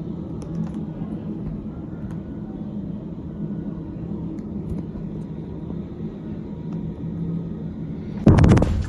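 Steady low rumble with a faint hum. Near the end a sudden, very loud blast breaks in, followed by a quick run of sharp cracks, likely a petrol-station explosion.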